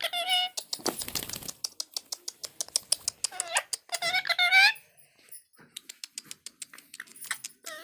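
Pet parrot calling: short squawky calls with sliding pitch, a harsh rasp about a second in, and a longer run of calls around three to four and a half seconds in, among many quick dry clicks.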